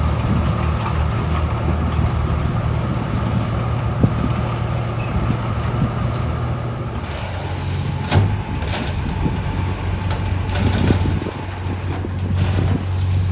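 Heavy diesel engine of construction machinery running steadily, with a hiss and a few knocks in the second half.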